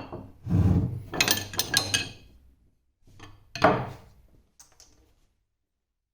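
A series of knocks, clinks and rubbing clatters of hard objects being handled on a workbench, with a loud knock nearly four seconds in, then the sound stops abruptly about five seconds in.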